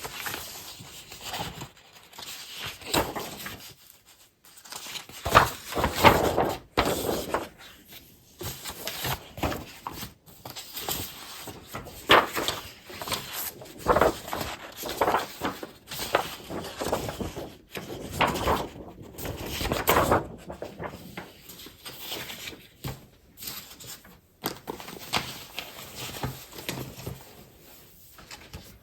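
Scrapbooking paper and packaged craft supplies being handled and sorted: irregular rustling, crinkling and shuffling, with occasional sharp knocks as items are set down.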